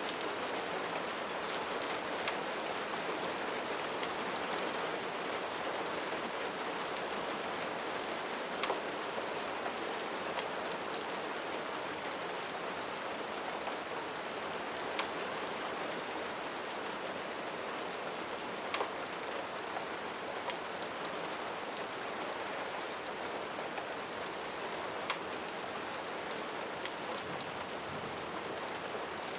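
Steady rain falling, an even hiss, with a few sharp ticks standing out every several seconds.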